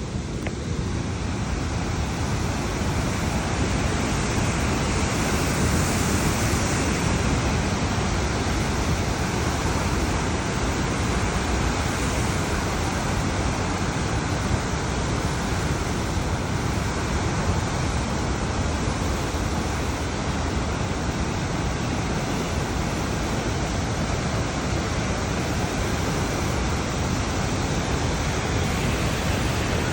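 Athabasca Falls' water rushing steadily, a dense even noise that grows louder over the first couple of seconds and then holds.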